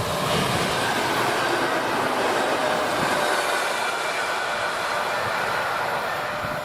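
EN57 electric multiple unit passing close by: a steady rush of wheel and rail noise with a faint whine running through it.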